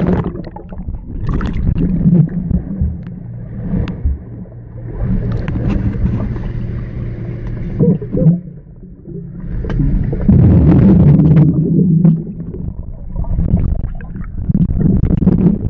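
Underwater sound from a small remote-controlled craft's electric motor, a steady low hum, with water gurgling and sloshing around it. It swells loudest about two-thirds of the way through.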